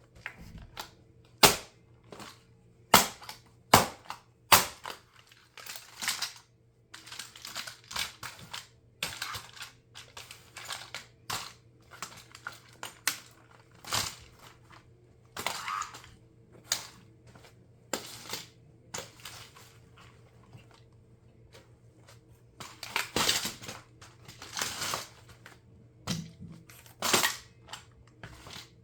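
Plastic RC car being crushed under high heels: sharp single cracks and snaps every second or so at first, then longer runs of crackling and crunching as the parts break up.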